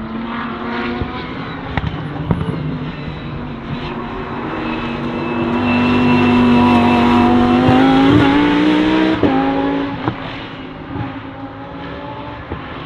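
Lamborghini Huracán Super Trofeo EVO2's V10 race engine under hard acceleration, revs climbing and the sound swelling to its loudest a little past the middle. It drops in pitch suddenly about nine seconds in, with several sharp cracks along the way.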